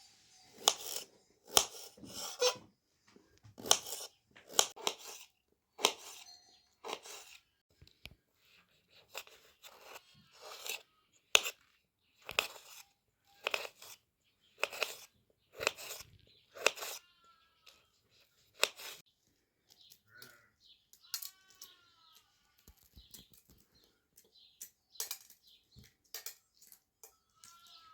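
A series of short crunching, tearing sounds, roughly one a second with quiet gaps between them, and a few faint bird chirps from about the middle on.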